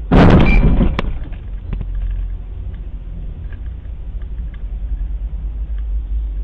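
A sudden loud crash of a car collision, a jolt of impact noise lasting under a second with a sharp knock at its end, followed by the steady low rumble of the car's engine and road noise as heard inside a car.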